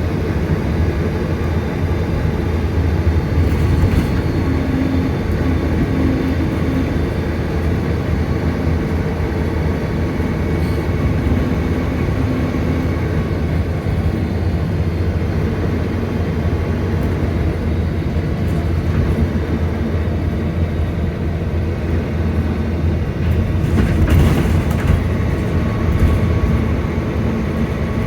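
Volvo B9TL double-decker bus's diesel engine running, a deep steady drone, with a few faint clicks about four seconds in and again near the end.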